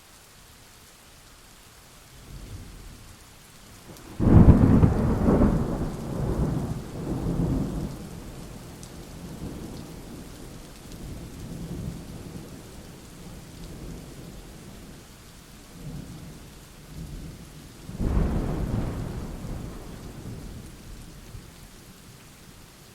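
Thunderstorm: steady rain with thunder. A loud thunderclap comes about four seconds in and rumbles away over several seconds, lower rumbles follow, and a second peal breaks a few seconds before the end and fades.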